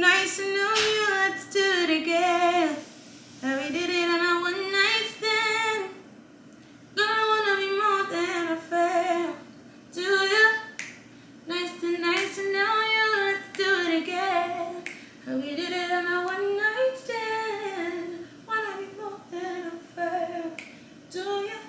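A woman singing a melody in phrases of a few seconds with short pauses between them, over sharp snap-like clicks.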